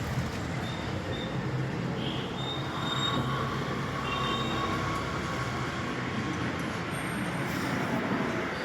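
Mahindra Maxximo engine running steadily, with a faint high whine coming and going over its rumble.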